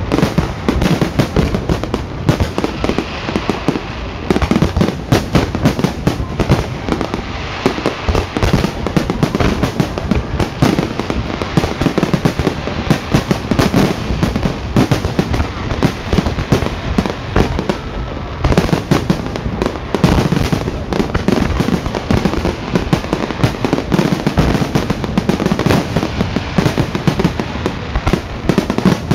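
Fireworks display: a dense, unbroken barrage of bangs and crackling bursts.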